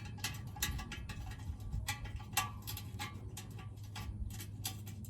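A string of light, irregular clicks and ticks from hand work on an exhaust tip fitting, over a low steady hum.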